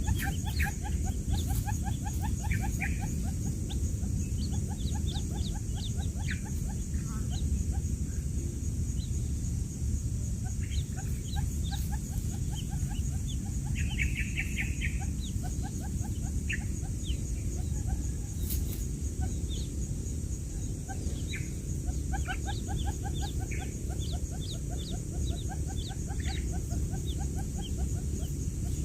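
Newly hatched quail chicks peeping: many short, high chirps and quick runs of rapid peeps, over a steady low background noise.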